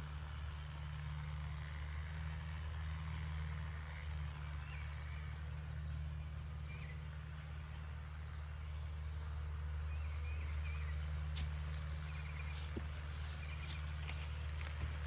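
John Deere tractor engine running steadily with a low, even hum, with a few faint chirps and some light clicks near the end.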